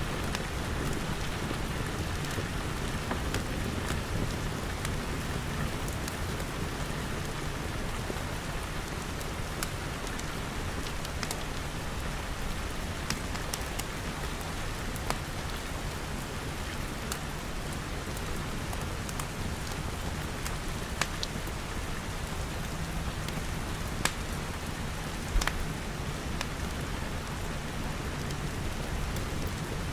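Steady rain falling on the glass walls and roof of a small building, with sharp crackles and pops from a wood fire every few seconds.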